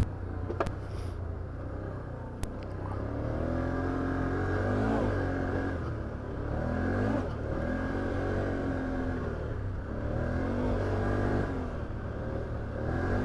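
Can-Am Outlander 850 XT ATV's V-twin engine under way, rising and falling in pitch several times as the throttle is worked on and off.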